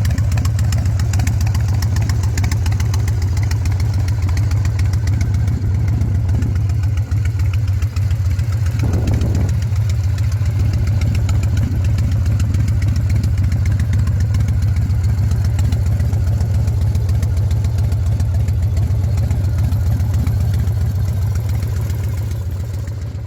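A 1998 Harley-Davidson Fat Boy's 1340 cc Evolution V-twin idling steadily, its even beat holding without revs, fading out near the end.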